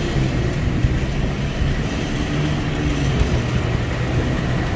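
Steady motor-vehicle noise: a car engine running with street traffic, a low wavering hum under an even rush of noise, with one faint click about a second in.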